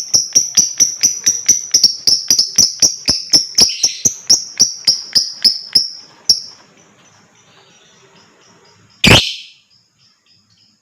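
Lovebird ngekek: a long run of rapid, evenly repeated high chattering notes, about five a second, that stops about six seconds in. A single loud, sharp sound comes about nine seconds in.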